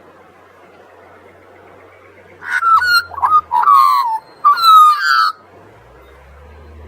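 Australian magpie carolling: a loud run of gliding, bending notes in several short phrases lasting about three seconds, starting a couple of seconds in, over a steady faint background hiss. A faint low rumble comes in near the end.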